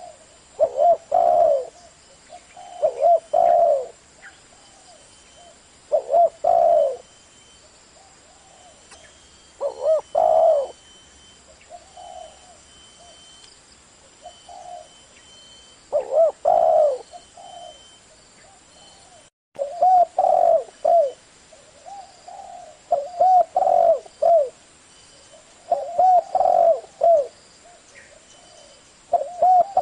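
Spotted dove cooing repeatedly in the low 'thổ' voice style prized by dove keepers, groups of two or three coos every couple of seconds.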